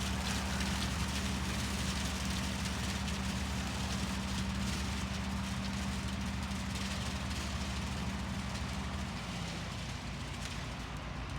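John Deere 4020 tractor engine running steadily at constant speed, with a slight change in its note about nine seconds in.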